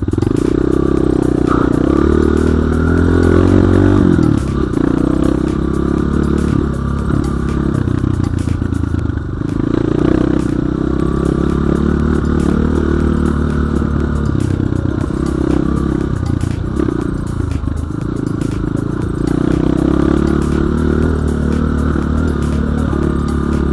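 BSE J1 enduro dirt bike engine being ridden hard off-road, the revs rising and falling in repeated surges as the throttle is worked. Frequent knocks and rattles from the bike running over rough ground sound throughout.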